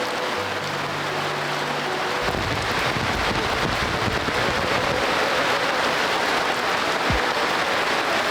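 Steady rushing water, a dense hiss like rain or running water, with a low rumble joining about two seconds in.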